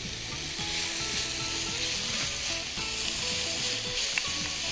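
Diced zucchini, onion and red bell pepper sizzling steadily as they sauté in olive oil in an enamelled cast-iron pan. A silicone spatula stirs them near the end.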